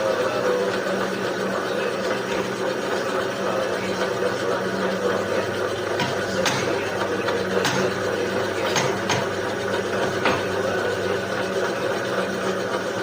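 Cylinder boring machine running steadily on a Yamaha Crypton engine block, a constant machine hum with a few sharp clicks partway through.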